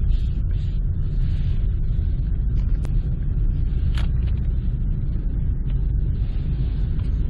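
Car cabin noise while driving: a steady low rumble of engine and tyres heard from inside the car. Two sharp ticks come about a second apart near the middle.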